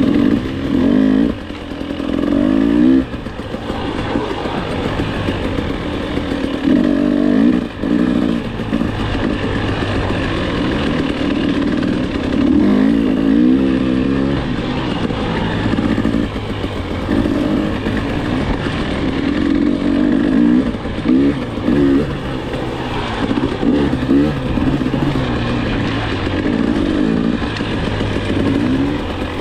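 Enduro dirt bike engine under way, revving up and down over and over as the throttle is opened and closed, with short drops in loudness where it backs off.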